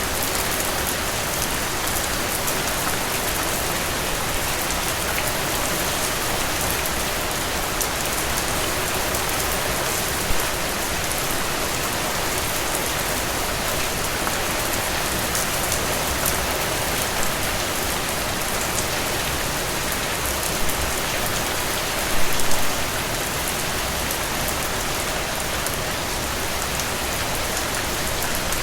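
Steady rain falling, with individual drops ticking close by. A few briefly louder spatters stand out, the strongest about 22 seconds in.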